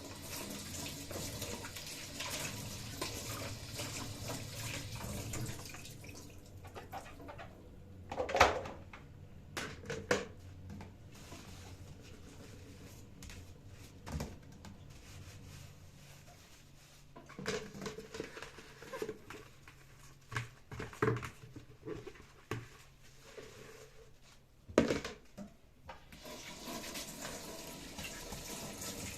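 Kitchen tap running into the sink, stopping about six seconds in and starting again near the end, with a few sharp knocks in between.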